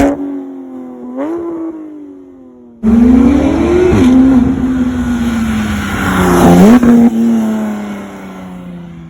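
A high-performance car engine revving. There is a short blip about a second in, then a sudden loud burst of throttle about three seconds in and another rev near seven seconds. After that the engine note falls and fades toward the end.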